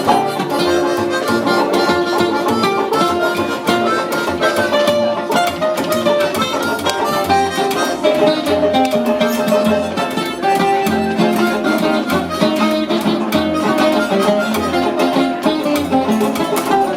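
Live band playing an instrumental break in a calypso-style song: a lead melody of held notes over strummed guitar and a steady beat.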